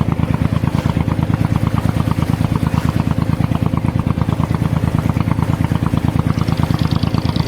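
An abra water taxi's engine running steadily, with a fast, even chugging pulse.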